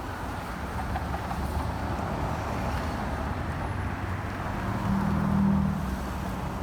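City street traffic running steadily, with one vehicle's engine growing louder as it passes about five seconds in.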